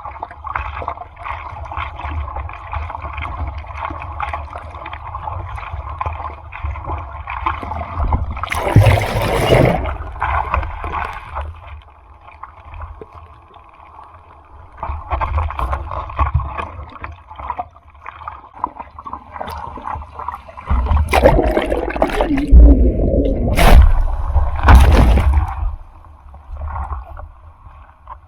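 Seawater in rough typhoon surf splashing and sloshing. It comes in uneven surges with deep rumbling, loudest about a third of the way in and again over several seconds near the three-quarter mark.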